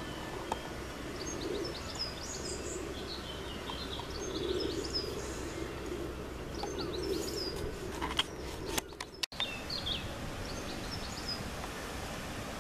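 Small songbirds chirping and twittering again and again over a steady background hum, with a few clicks and a brief break about nine seconds in.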